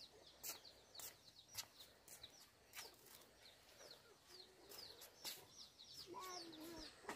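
Faint bird chirping: quick, short, high chirps repeating all through, with a faint lower call about six seconds in.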